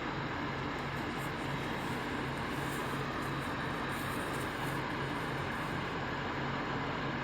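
Truck engine idling steadily, a low hum that pulses evenly.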